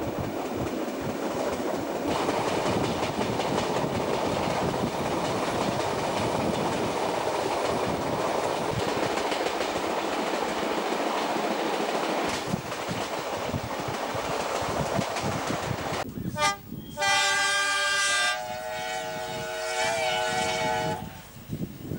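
Steady rumble and wheel clatter of a moving passenger train heard from aboard. About sixteen seconds in, a locomotive's multi-note chime sounds: one short blast, then a longer one lasting about four seconds.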